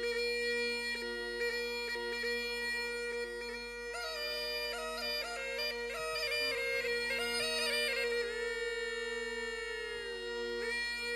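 Rajasthani folk instrumental music: a reedy melody over a steady drone. The melody moves in short stepped notes, busiest in the middle, then slides down in pitch near the end before the drone carries on.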